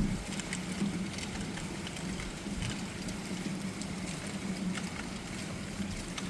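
Thunderstorm rain falling steadily, with scattered drops ticking close by, over a low steady hum.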